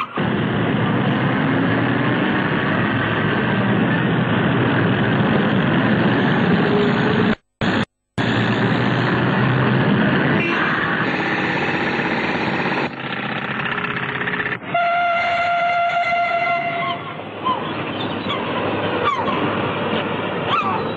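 A train running on the rails, a steady dense rumble and clatter that cuts out twice for a moment about halfway. About two-thirds of the way through, a train whistle sounds one held note for about two seconds. Short bird calls follow near the end.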